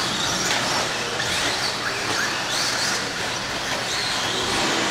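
Several radio-controlled stock-class trucks racing, their electric motors and gears whining in short rising and falling sweeps as they accelerate and brake, over a steady hiss.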